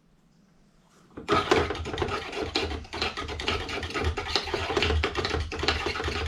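Rapid, scratchy scraping made of many quick small strokes, starting about a second in.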